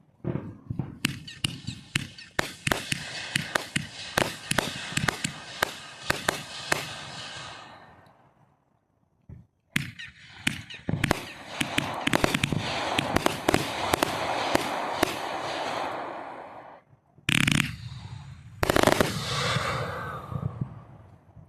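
Fireworks going off in rapid volleys of sharp cracks and crackling, two long barrages with a short pause between them about eight seconds in, then two louder bursts near the end.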